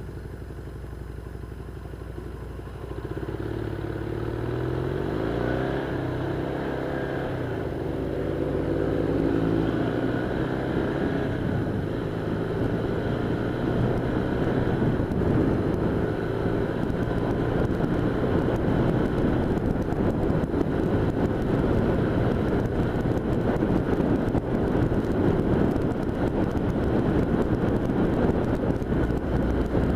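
1978 Honda Hawk 400's parallel-twin engine, quieter for the first few seconds, then revving up as the bike accelerates, followed by steady cruising with heavy wind rushing over the microphone.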